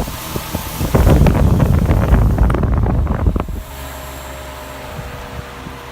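Vintage Dayton 16-inch table fan running on high, its loose grill rattling, which makes too much racket. About a second in, a louder rush with dense rattling lasts a couple of seconds, then it settles to a steadier, quieter hum.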